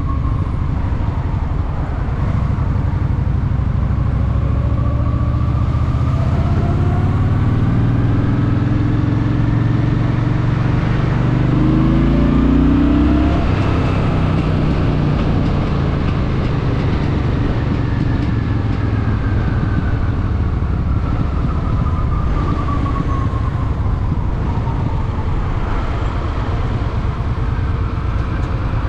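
Honda Shadow VT750's V-twin engine running under the rider, its pitch rising steadily as it accelerates through the middle and then dropping back, with city traffic around it.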